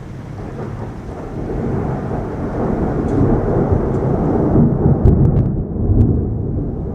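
Rolling thunder rumbling over steady heavy rain, building over the first couple of seconds and loudest in the second half, with a few sharp cracks near the end.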